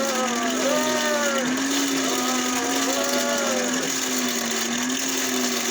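Hand-cranked forge blower whirring as it is turned, with a steady low hum and a higher whine that rises and falls about once a second. It is blowing air into the coal fire to heat the steel.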